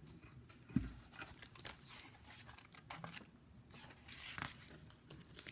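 Faint rustling and handling of a picture book's paper pages, with a soft thump about a second in.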